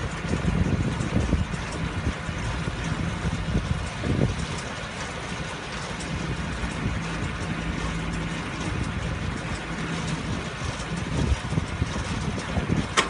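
IHI STAR straw baler at work with its driving engine: a steady mechanical drone with a constant hum, broken by irregular low thumps.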